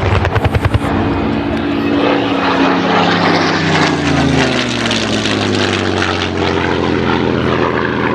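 A fast burst of machine-gun fire ends within the first second. Then a Second World War fighter's V12 piston engine passes overhead, and its pitch falls as it goes by.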